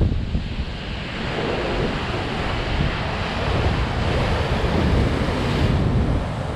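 Typhoon wind buffeting the microphone over rough, storm-driven water, with a rushing surge that builds after about a second and eases near the end.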